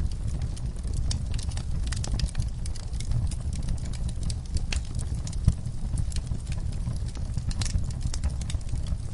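Burning logs in a fireplace: a steady low noise of the flames under frequent sharp crackles and pops, with one louder pop about five and a half seconds in.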